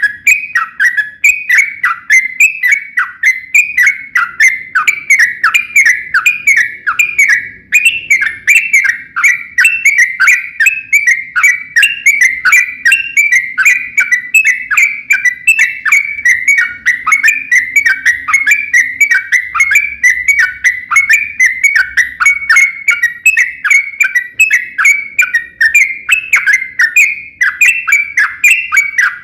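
Yellow-vented bulbul (trucukan) singing a long unbroken run of quick whistled notes, about three a second, many of them falling in pitch.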